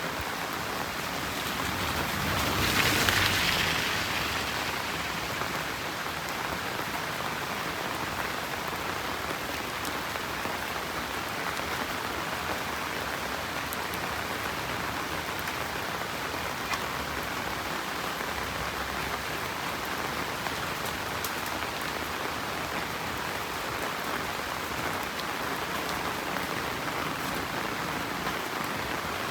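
Steady rain falling on a road and the surrounding greenery, an even hiss, with a brief louder whoosh that rises and fades about three seconds in.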